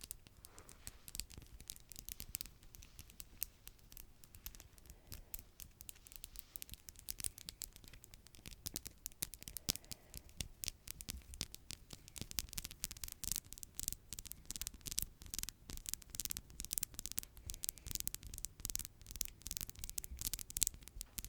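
Freshly manicured fingernails tapping and scratching on a surface in quick, irregular clicks, getting busier about halfway in.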